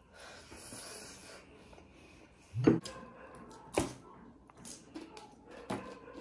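Close-miked eating sounds: chewing of rice and meat with wet mouth noises, broken by a few short, crisp crunches. The loudest crunch comes about two and a half seconds in, and there is a bite into a raw lettuce leaf.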